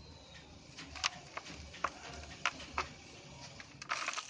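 Dry moulded brown dirt shapes being crushed and crumbling: a run of separate sharp crunches through the middle, then a denser burst of crumbling near the end.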